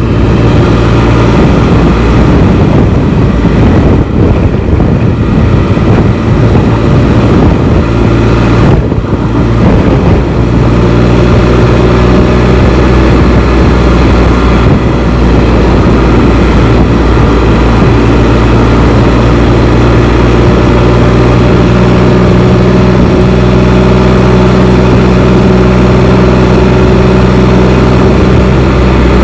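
Can-Am Spyder three-wheeled motorcycle's engine running at steady cruising speed, with wind rushing over the microphone.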